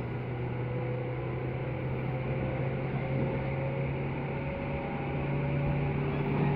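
Tobu 10030-series electric train running, heard from inside the passenger car: a steady low hum under rolling noise, with faint motor tones that drift slightly in pitch, growing a little louder near the end.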